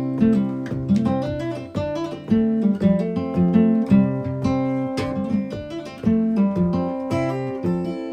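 Background music: acoustic guitar plucking and strumming a melody, each note struck crisply.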